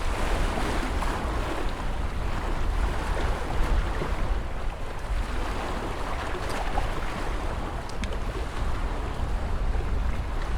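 Ocean surf washing steadily, an even rush of breaking waves over a deep low rumble.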